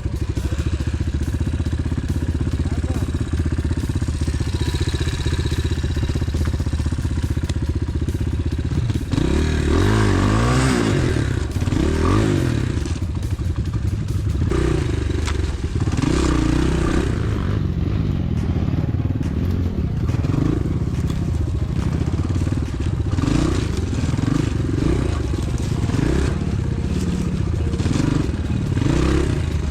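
Dirt bike engine running at a steady speed for about nine seconds, then revved up and down again and again as the throttle is worked on a rough trail.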